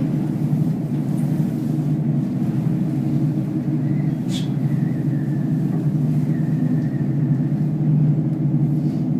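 Steady low rumbling drone inside a Sandia Peak aerial tramway cabin as it travels along its cables. A faint thin high tone comes and goes through the middle, and there is one short click about four seconds in.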